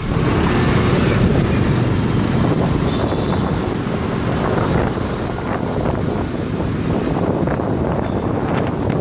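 Motorcycle riding: steady engine and road noise with wind buffeting the microphone.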